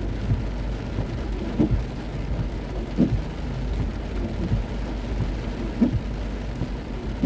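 Heavy rain beating on a moving car, over a steady low rumble, with a soft thump repeating about every second and a half.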